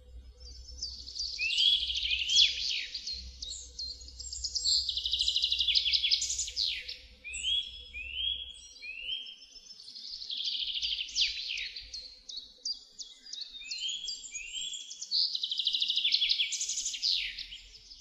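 A songbird singing: four long phrases of rapid trills and quick sweeping notes, each lasting a few seconds with short pauses between, over a faint low hum that drops away about halfway through.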